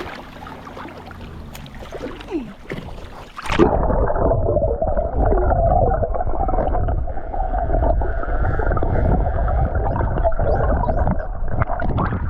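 Sea water splashing and sloshing around the microphone. About three and a half seconds in, the sound turns suddenly muffled and booming, with the high end gone, as the microphone goes under the water surface.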